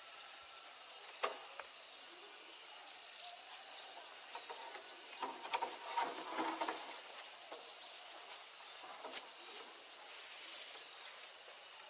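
Steady high-pitched insect buzz with scattered work noise: a sharp knock about a second in and a cluster of clicks and clatter around the middle.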